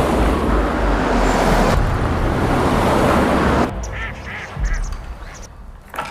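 A loud, even rushing noise that stops about three and a half seconds in, followed by three short animal calls in quick succession.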